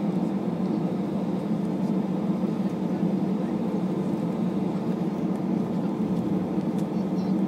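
Steady jet engine and airflow noise inside an Airbus A321's passenger cabin under power: a dense, even rumble that holds without change.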